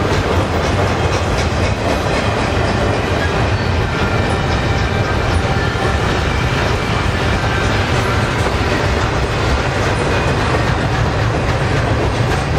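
Double-stack container train's loaded well cars rolling past: a steady, loud rumble of steel wheels on rail with scattered faint clicks.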